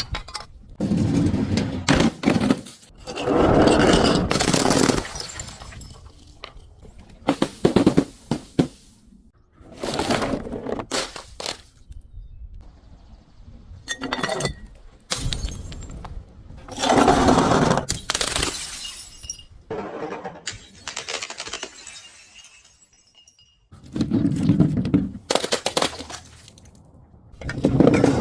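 Glass bottles being smashed and crushed: a series of loud crashes of shattering glass every few seconds, with the higher clinking of shards between some of them.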